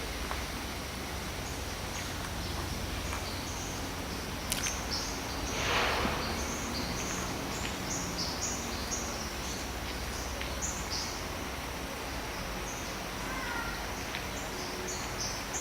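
Rainforest ambience: birds chirping in many short high notes scattered throughout, over a constant low rumble. A sharp click about four and a half seconds in is followed by a brief rush of noise.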